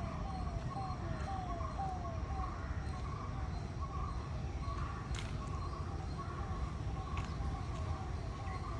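A bird calling a rapid series of short, falling whistled notes, about three a second, with fainter chirps from other birds, over a steady low rumble. A sharp click sounds about five seconds in.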